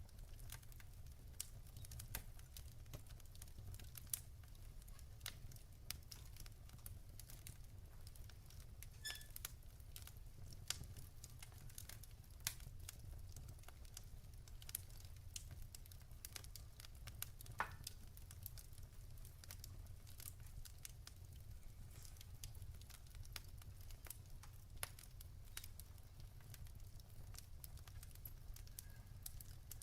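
Wood fire in a fireplace crackling faintly: irregular sharp pops and snaps of burning logs over a steady low rumble, with one stronger snap about two-thirds of the way through.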